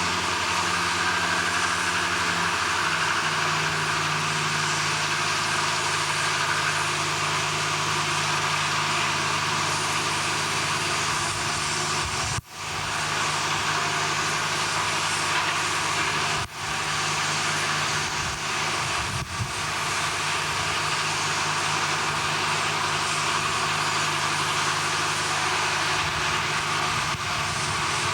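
Steady drone of heavy machinery running, with a constant low hum under broad mechanical noise. It is broken by brief sudden dropouts about twelve and sixteen seconds in.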